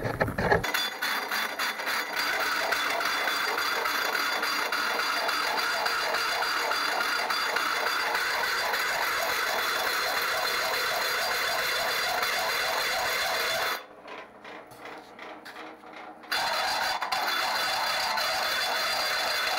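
Electric drill boring through the centre of a steel pulley: the motor runs steadily while the bit rasps through the metal. It stops for a couple of seconds a little past the middle, then starts cutting again.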